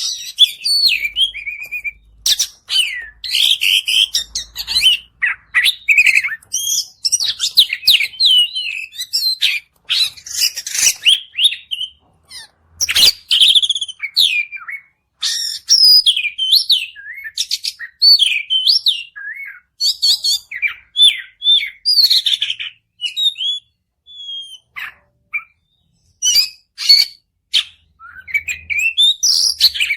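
Oriental magpie-robin (kacer) singing a long, varied song of rapid whistles and chirps, with a few brief pauses between phrases.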